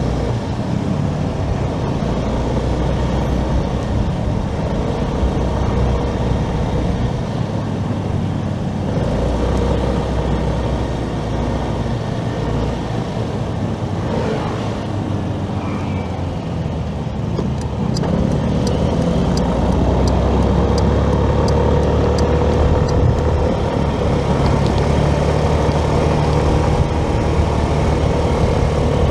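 Motorcycle riding through city traffic: steady engine drone with wind and road rumble, growing louder about two-thirds of the way through as it speeds up. Midway there is a faint regular ticking, about two a second, lasting several seconds.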